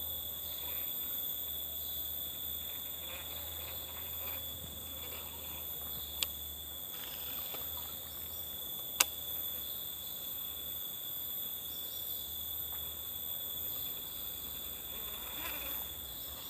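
Forest insects calling steadily at several high pitches, a continuous chorus. Two sharp clicks break in, about six and nine seconds in.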